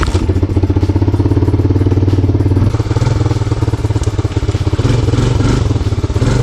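1987 Honda TRX250 ATV's single-cylinder four-stroke engine running steadily at low revs. It runs fine as long as the RPMs are kept down.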